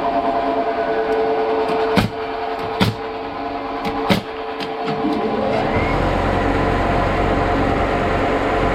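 Machinery running with a steady hum, broken by three sharp knocks about two, three and four seconds in. A little after five seconds a motor winds up with a rising whine and settles into a deeper steady rumble.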